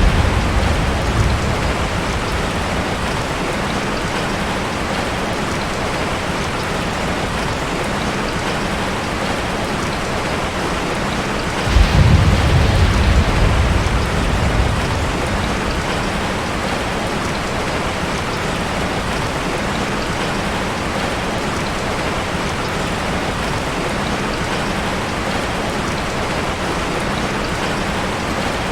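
Steady, heavy rain falling on a forest, a dense even hiss. A low rumble of thunder fades out in the first second or so, and another rolls in about twelve seconds in and lasts a few seconds.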